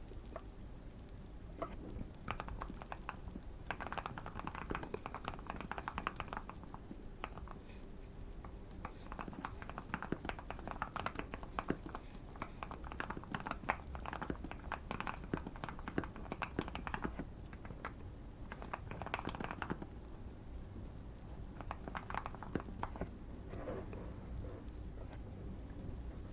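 Typing on a modded Keychron Q1 mechanical keyboard: fast runs of key clicks in several bursts with short pauses between them. A steady, low fireplace crackle runs underneath.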